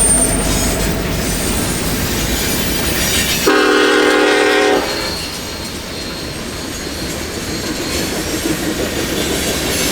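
Train running by with steady rail and wheel noise; about three and a half seconds in, a short air-horn blast of a little over a second sounds as a chord of several held notes.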